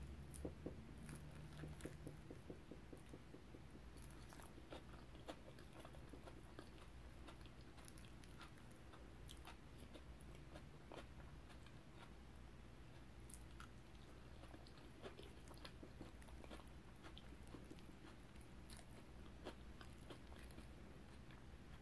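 Quiet, close-miked chewing of soft potato salad, with many short wet mouth clicks and smacks, and a metal fork scooping food off a wooden board.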